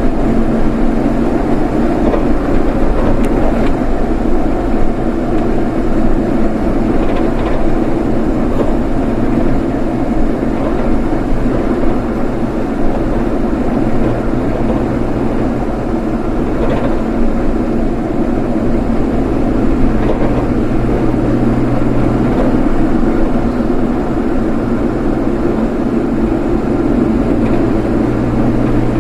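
Steady road and engine noise of a vehicle being driven, holding an even level with no sudden events.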